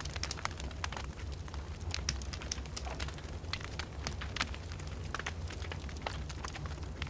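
Fire in a fireplace crackling, with frequent sharp, irregular pops over a steady low rumble.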